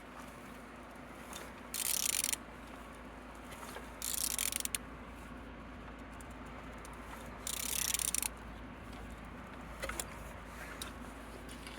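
Used 21V1 engine being turned over by hand: three short bursts of rasping clicks a few seconds apart, with a few faint clicks near the end. The engine turns freely, a sign that it is not seized.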